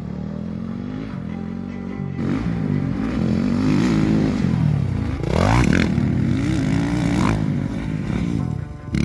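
Motocross bike engine being ridden on a dirt track, its revs rising and falling repeatedly with throttle and gear changes, including a sharp rev up about five seconds in.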